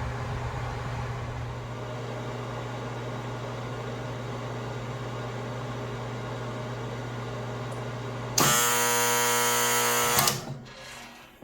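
1976 Amana Radarange RR-4DW microwave oven running with a steady electrical hum. About eight seconds in, a loud, steady tone sounds for about two seconds and then cuts off, and the hum stops with it: the oven's end-of-cycle signal as the cooking cycle ends.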